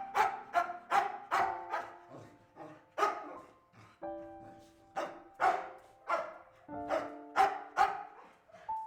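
A dog barking repeatedly in quick runs of several barks, over soft background music with sustained notes.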